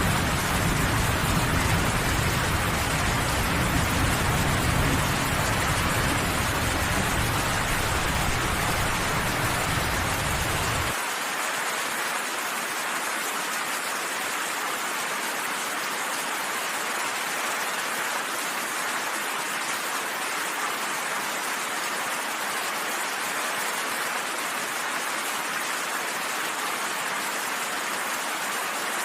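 Steady, heavy rain. A deep low rumble sits under it and cuts off suddenly about eleven seconds in, leaving only the rain.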